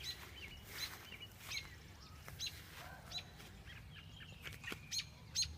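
Birds chirping repeatedly: short, sharp calls that drop quickly in pitch, coming about every half second to a second, with a few longer, steadier notes between them.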